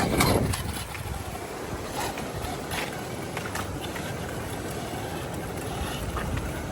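Steady rain and wind noise buffeting the microphone, with a sharp knock right at the start and a few fainter clicks after it.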